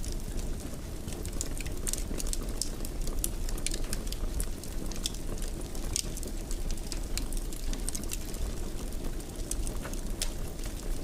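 Wood fire crackling in a fireplace: a steady low rumble of flames under frequent short, sharp pops and snaps.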